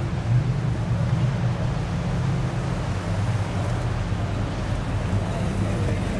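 A 1969 Chevrolet Chevelle's engine running at low speed as the car rolls slowly past, a steady low exhaust note with little change in pitch.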